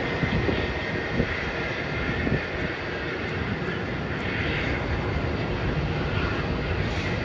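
Boeing 737 jet engines heard from a distance as the airliner comes in to land: a steady jet rumble with a faint whine above it.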